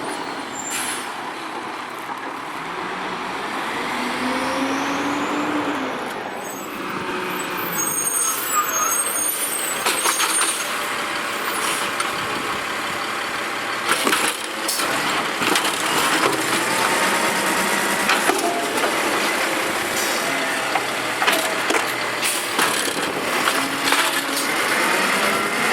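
Automated side-loader garbage truck at work: the engine revs up and down, with repeated knocks and bangs from the lifting arm and the cart, and air-brake hisses.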